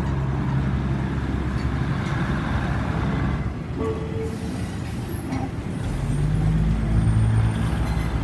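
Diesel train running over a level crossing: a steady low engine drone with rail noise. About six seconds in, the engine note rises and grows louder. No crossing warning bell is sounding, because the crossing's signal sound is out.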